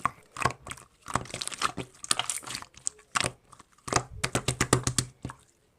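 Slime being pressed and squished by hand, giving irregular crackling and popping clicks.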